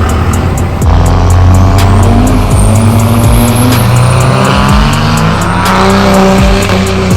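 Diesel truck engines revving, their pitch rising and falling, over background music with a steady beat.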